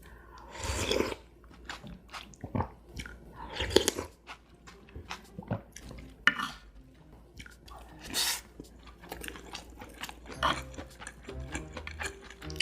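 Close-miked chewing and biting of fried rice and pork belly, with crunchy and wet mouth sounds and a louder bite or slurp every two to three seconds.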